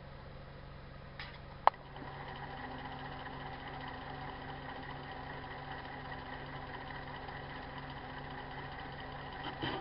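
A sharp click, then an electric motor starts and runs with a steady hum of several held tones, like a machine tool switched on in a workshop.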